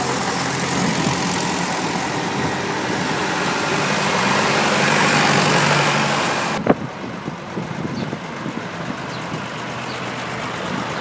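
Tractor engines running steadily. About two-thirds of the way through the sound cuts off abruptly with a click and gives way to a quieter, duller engine sound.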